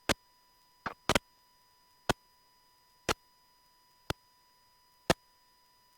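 Sharp, even ticks about once a second, with one extra click just before the second tick, over an otherwise near-silent line.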